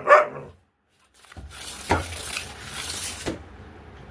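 A pet dog barks once or twice at the very start, then about two seconds of clattering, rustling noise with a few sharp knocks follow and die away.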